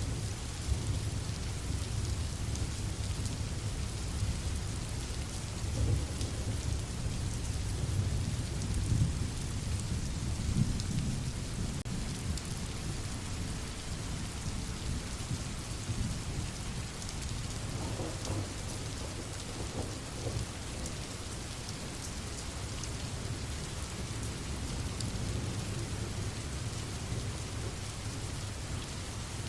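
Steady rain, with a low rumble underneath that swells a few times in the first half.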